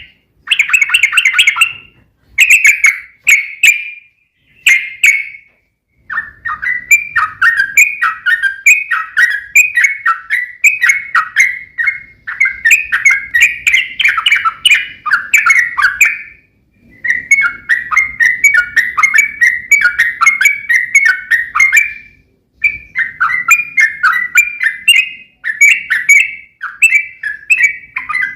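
Yellow-vented bulbul (trucuk) singing its long rolling 'ropel' song. A few short bubbly phrases open it, then runs of rapid chattering notes last several seconds each, with brief pauses about 16 and 22 seconds in.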